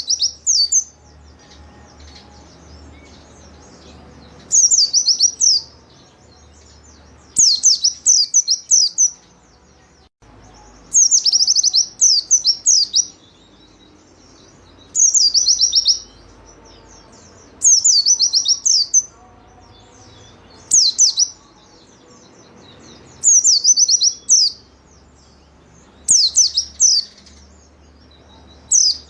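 White-eye (pleci) singing in short bursts of several rapid, high, downward-sliding notes, a burst every two to three seconds, about nine times.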